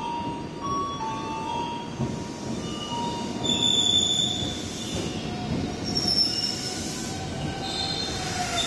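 Tobu Ryōmō limited express train pulling in and braking to a stop at a platform, with a rumble of running gear and high-pitched squealing, loudest about four seconds in.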